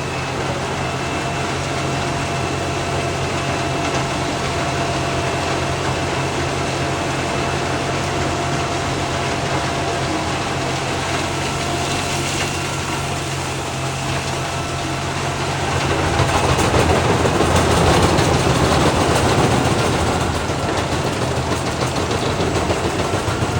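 Large diesel engine running steadily, then getting louder and rougher for several seconds about two-thirds of the way through before settling again.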